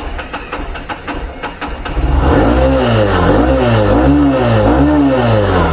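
Motorcycle engine ticking over, then revved up and down several times in quick succession from about two seconds in.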